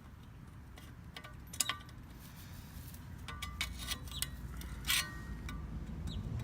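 Light metallic clinks and taps of hand tools on the knife's metal and its rivets, as the rivets are worked out of the handle. A few separate strikes ring briefly: one about a second and a half in, a quick cluster past the middle, and another near the end.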